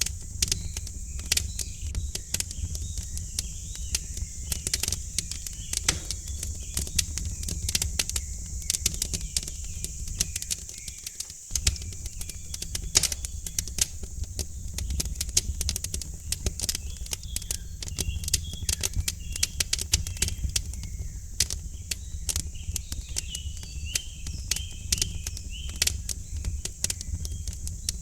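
Wood fire crackling in a fireplace: irregular sharp pops and snaps over a steady low rumble, with faint bird chirps in the background, mostly in the second half.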